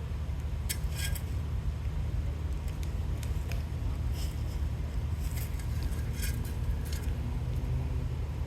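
Fire truck idling with a steady low rumble, with scattered light metallic clicks and clinks over it.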